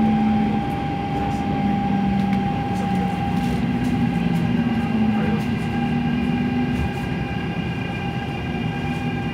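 MTR A-Train electric multiple unit running on the Tung Chung Line: a steady rumble of wheels on rail with the constant whine of the traction equipment, one tone held steady above several higher ones, and low motor tones that shift in pitch as it goes.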